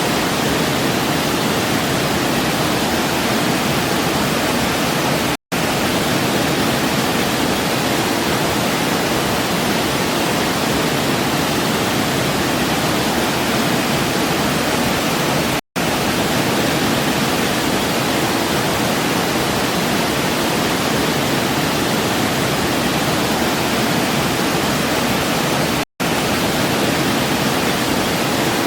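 Steady, even rushing of a waterfall, broken three times by a momentary cut to silence about ten seconds apart.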